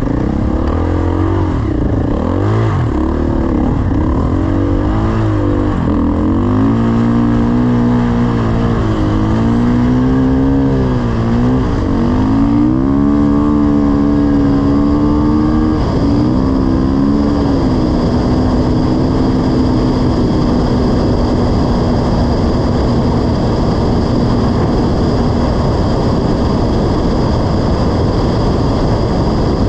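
Dirt bike engine under way, its pitch rising and falling as the rider works the throttle through the first half, then held at a steady pitch before it sinks under the noise near the end. A constant loud rush of wind noise runs underneath.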